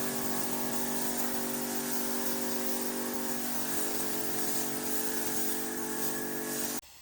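Engine bay being spray-painted: a steady motor hum from the air supply under a loud even hiss of air and paint from the spray gun, cutting off abruptly near the end.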